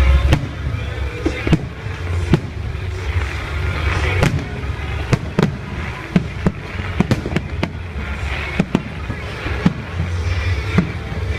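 Aerial fireworks shells bursting overhead: over a dozen sharp bangs at irregular intervals over a steady low rumble, with fainter crackling between them.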